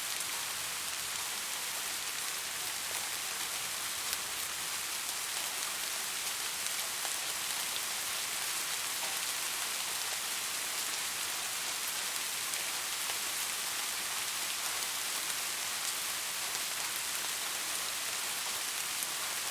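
Steady rain falling on a surface, an even hiss with many fine drop ticks and no thunder.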